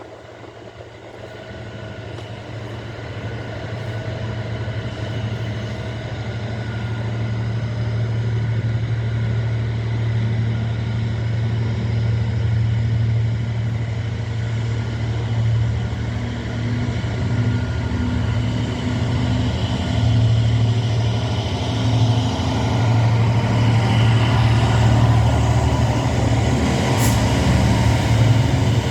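Class 66 diesel-electric locomotive (EMD two-stroke V12) approaching at the head of a freight train, its low engine drone growing louder over the first ten seconds or so and then holding loud and steady. There is a sharp click near the end.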